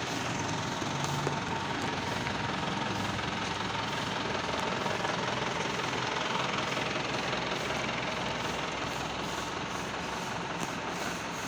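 A vehicle engine running steadily, with a constant noisy hiss over it.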